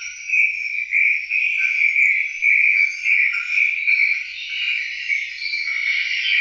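Dense, continuous chorus of high-pitched animal calls, swelling and fading in quick repeated pulses.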